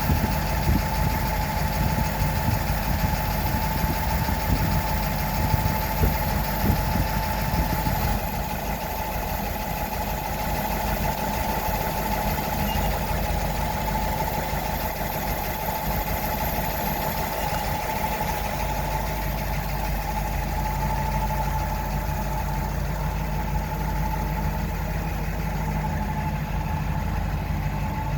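1941 Buick Limited's straight-eight engine idling steadily, running to test its new water pump and radiator; it settles slightly quieter and smoother about eight seconds in.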